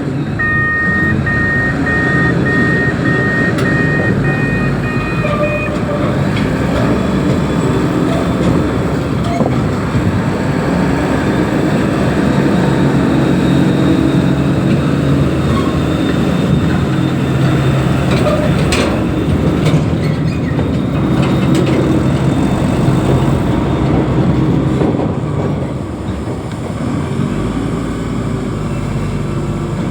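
Heavy diesel engine of a reach stacker running steadily. A reversing alarm beeps repeatedly over roughly the first five seconds.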